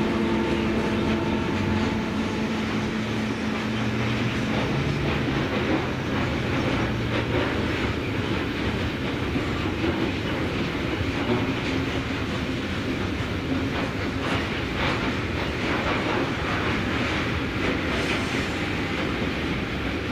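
A train rolling past close by, its wheels clattering steadily over the rails.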